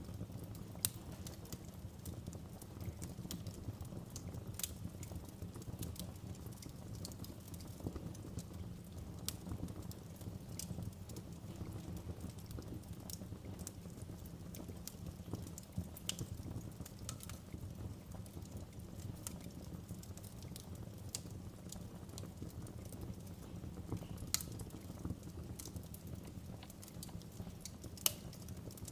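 Wood fire burning steadily in a fireplace, with a low rumble of flames and frequent small crackles and pops, a few sharper pops standing out near the start and end.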